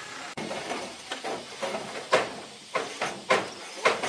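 A steady hum cuts off abruptly near the start, followed by irregular sharp knocks and clatter, with a few loud hits in the second half.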